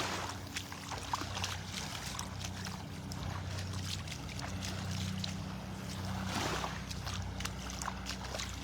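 Steady low hum of a motorboat engine running, a little louder in the middle, with faint small water sounds in the shallows.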